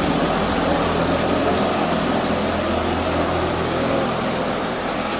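Steady city street noise with the low hum of a running vehicle engine, loudest in the middle of the stretch.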